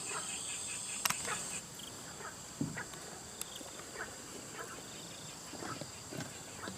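Crickets chirring in a steady high drone that weakens after about a second and a half, with irregular soft scrapes and knocks about every half second. There is one sharper click about a second in.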